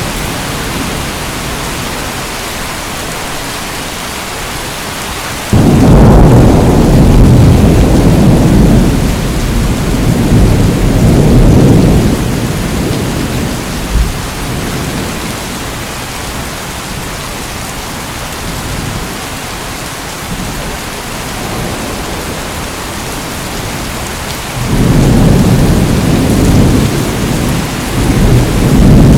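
Steady heavy rain with rolling thunder: a loud low rumble begins suddenly about a fifth of the way in and rolls on for several seconds, and a second one builds near the end.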